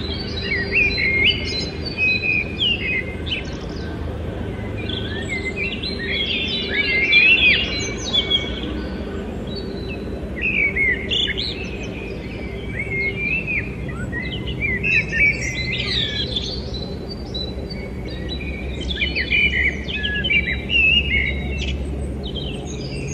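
Several small birds chirping and twittering in quick, overlapping bursts, over a faint steady low hum.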